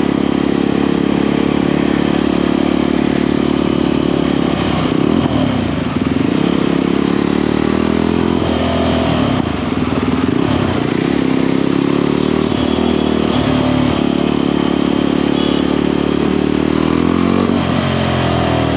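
Motorcycle engine running under way, its revs rising and falling several times as the rider works the throttle.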